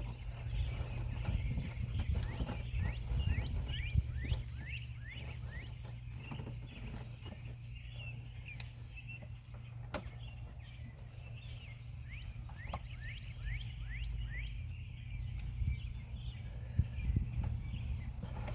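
Birds chirping over and over, with scattered light clicks and knocks of hand work on the truck's engine and a steady low hum underneath.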